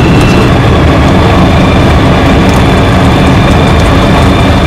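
Loud, steady engine and propeller noise of a Comco Ikarus C42 ultralight heard from inside the cockpit.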